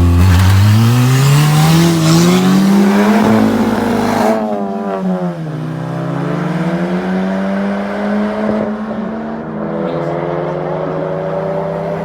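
Car engine pulling hard, its pitch climbing steadily for about four seconds, then falling away sharply and settling into a steadier drone that rises and dips a little.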